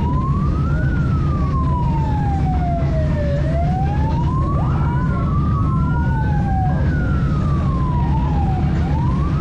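Emergency-vehicle siren wailing in slow rises and falls, with a second siren overlapping around the middle, over a steady low engine rumble.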